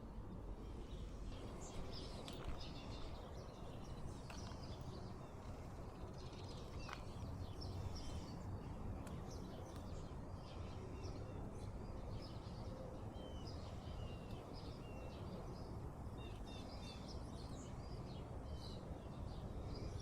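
Small birds chirping over and over, many short high calls, over a steady low outdoor rumble.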